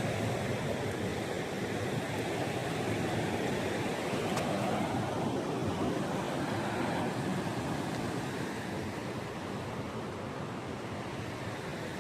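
Ocean surf washing on the beach: a steady rush that swells a little midway and eases near the end.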